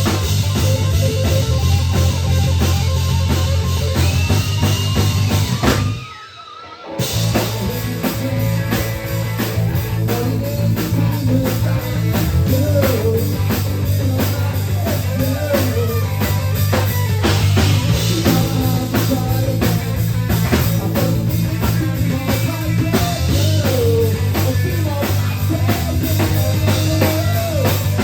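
A recorded rock song with drum kit and guitar. The music drops out for about a second, roughly six seconds in, then carries on.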